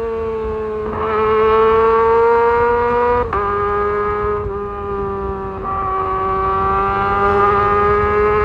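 Kawasaki ZX-25R's 249 cc inline-four revving very high under acceleration, its pitch climbing slowly. About three seconds in there is a sharp click and the pitch drops: a quickshifter upshift. The pitch steps again twice later.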